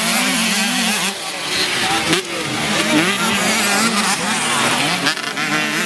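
Several small racing motorcycle engines revving on a dirt track, their pitch repeatedly rising and falling as the riders work the throttle, with crowd noise underneath. The sound cuts off abruptly at the end.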